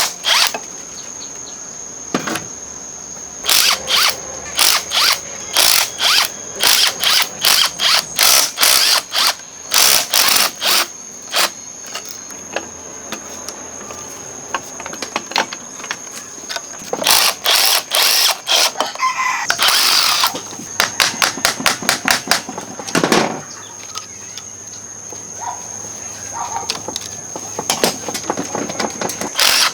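A power tool run in many short trigger bursts, in clusters with pauses between, over a steady high-pitched whine.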